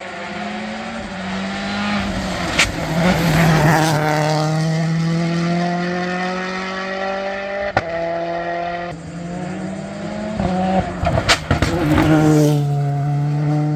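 A modern rally car's engine running hard on a special stage, its note climbing slowly in long pulls. The note breaks up roughly twice, with a few sharp cracks.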